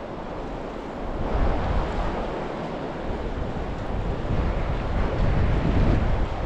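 Steady rush of flowing river water, with wind buffeting the microphone in uneven gusts from about a second in, growing stronger near the end.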